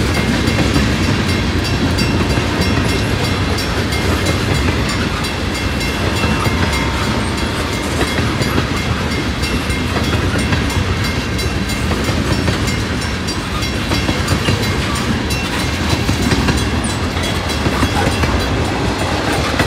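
Freight train cars rolling steadily past a grade crossing, wheels clicking over the rail joints.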